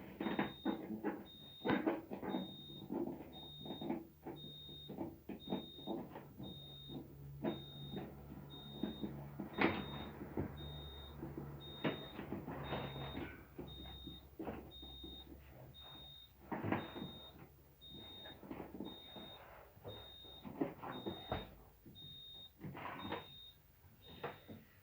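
A high electronic beep repeating about once a second, over irregular knocks, clicks and rustling from hands working on a refrigerator. A low hum runs underneath through the first half.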